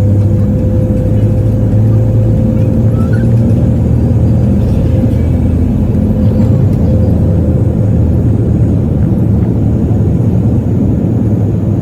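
Loud, steady, low engine rumble with a held hum that fades out about halfway through.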